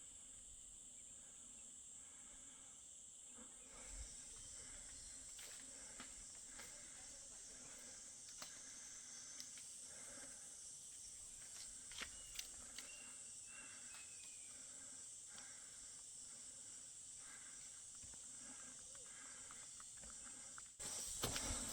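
Faint insect chorus of a tropical forest: a steady high-pitched drone that grows louder about three and a half seconds in, with scattered light ticks and a brief whistle-like call about twelve seconds in.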